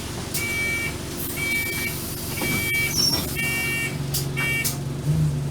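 Alexander Dennis Enviro200 bus with an electronic warning beep sounding five times, about once a second, over its diesel engine running. Near the end the engine note steps up.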